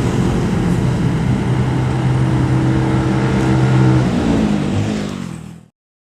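Heavy truck's diesel engine running, a steady engine note that changes pitch about four seconds in, then cuts off suddenly.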